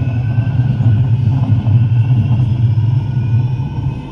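Tram running along the track, heard from on board: a steady, loud low rumble with a faint high whine above it.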